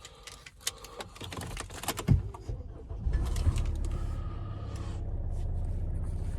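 A few clicks, then the 2016 Kia Carnival's 2.2-litre four-cylinder turbo-diesel cranks and starts about two and a half seconds in and settles into a steady idle.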